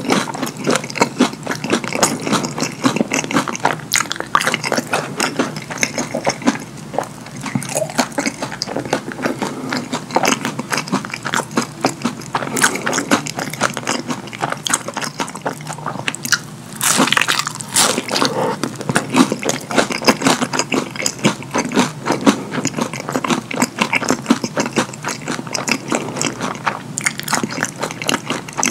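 Close-miked chewing of a cheese-sauce-covered hash brown: a dense run of quick mouth clicks and chewing sounds, with a louder stretch a little past the middle.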